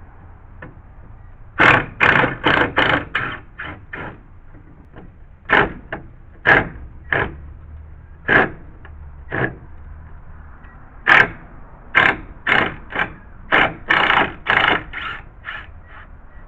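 Hand-tool work on a deck screw: about thirty short, sharp knocks and scrapes of metal on metal and wood, in three runs, the strokes roughly a third of a second apart.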